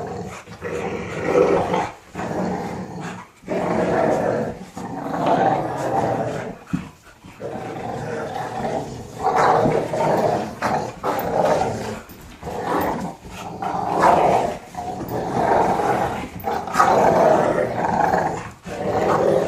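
Dogs growling in play while tugging on a rope, in rough bouts of a second or two with short breaks between them. It is normal play communication, not aggression.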